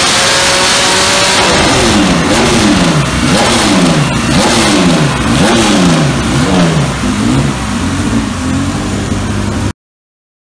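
Race car engine being run on a chassis dynamometer: its pitch climbs steadily under full throttle, then about a second in the pull ends and the revs drop and rise again over and over, about once a second, getting weaker. The sound cuts off abruptly near the end.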